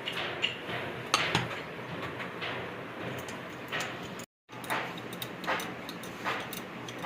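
Irregular metallic clinks and scraping strokes, typical of hand tools working on metal parts, with a brief dropout a little past halfway.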